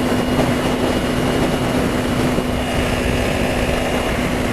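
Kawasaki Ninja 300 parallel-twin engine running steadily with a constant hum, under a wash of wind and road noise; no revving.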